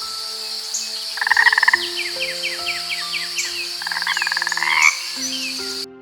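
Soft background music of held notes over a nature soundtrack: a steady high insect-like drone, chirping birds, and two rapid rattling call trains, one about a second in and a longer one near four seconds. The nature sounds cut off abruptly just before the end, leaving the music.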